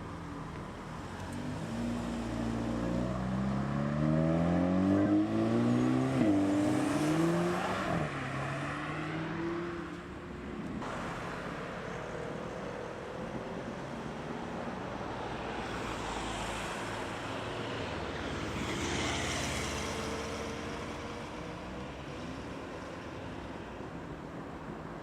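An Audi's engine revs up as the car accelerates away, with one upshift about six seconds in. Later a quieter car passes, mostly tyre and road noise.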